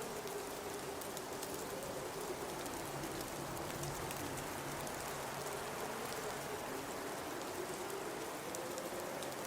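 Blizzard wind howling in a low wavering tone that slowly rises and falls over a steady hiss, with scattered faint ticks on top.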